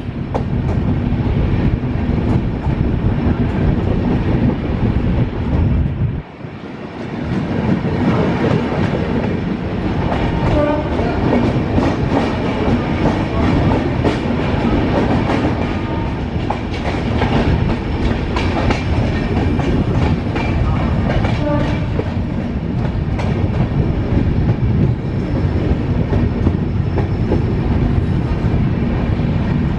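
Passenger train running at speed: a steady rumble of wheels on rails with a rapid, uneven clatter of clicks over rail joints. It dips briefly quieter about six seconds in.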